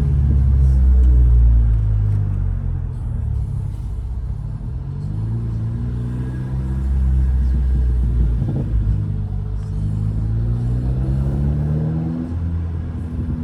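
Straight-piped 2015 Mercedes CLA 250's turbocharged four-cylinder exhaust, heard while driving, with a deep rumble. The engine pitch climbs steadily under acceleration through the second half, then drops near the end as it shifts up.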